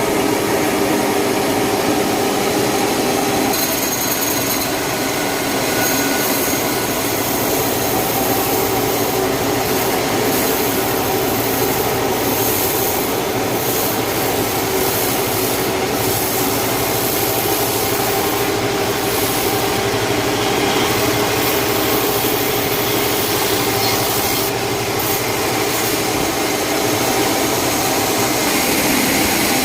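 Sawmill saw cutting a large log, a steady loud noise with a constant hum that runs without pause.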